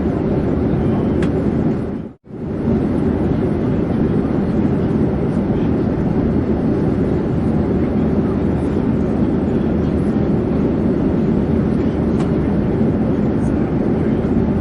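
Airplane in flight: a steady, low rushing noise that fades out for a moment about two seconds in and then comes straight back.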